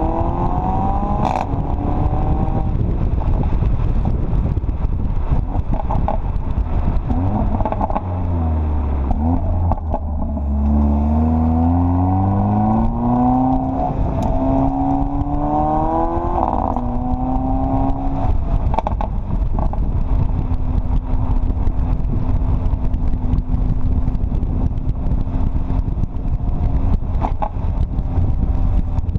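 2015 Mercedes CLA45 AMG's turbocharged 2.0-litre four-cylinder engine and exhaust under way, the pitch climbing under acceleration and dropping sharply at gear changes, with a few short exhaust pops and crackles. Over the last ten seconds or so it holds a steady pitch.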